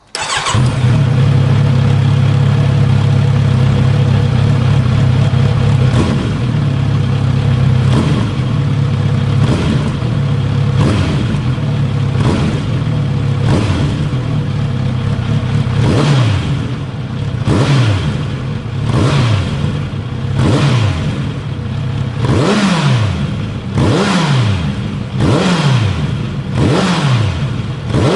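Kawasaki Z900RS inline-four motorcycle engine starting and settling into a steady idle, then given repeated throttle blips through the exhaust. Each blip rises sharply and falls back toward idle, and the blips come closer together in the second half.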